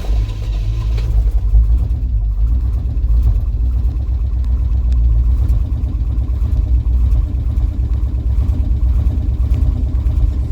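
Old vehicle's cold gasoline engine running steadily on part choke, loud and low-pitched.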